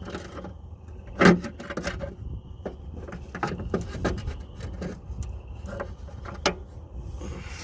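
Hand tools working a hard-to-reach fender bolt on a truck: irregular metallic clicks and clinks of a ratchet and wrench, with one louder knock about a second in.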